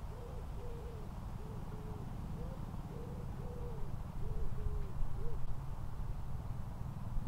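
A bird calling in a run of short, low hooting notes, each rising and falling in pitch, in phrases that stop about five seconds in. A steady low rumble runs underneath and grows louder around four to five seconds in.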